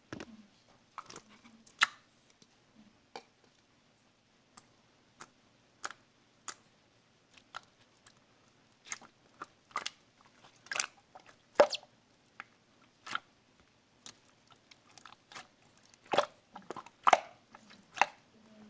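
Slime being squeezed and pressed by hand: irregular sharp, sticky clicks and pops, one or two a second, coming thicker near the end.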